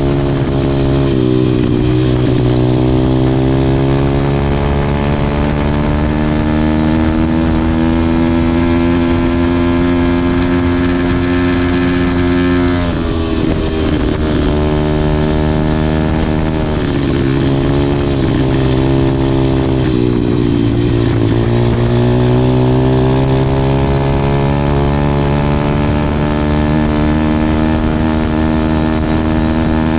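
MRF 140 pit bike's single-cylinder four-stroke engine running steadily loud, its pitch climbing slowly for several seconds, dropping sharply about thirteen seconds in, dipping again around twenty seconds in, then climbing slowly once more.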